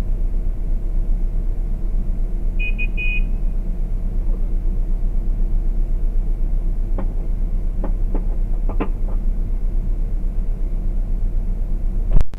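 Steady low engine rumble of a stopped car, heard from inside the cabin through the dashcam microphone. A short beeping comes about three seconds in, a few light clicks follow in the middle, and a sharp knock comes just before the end.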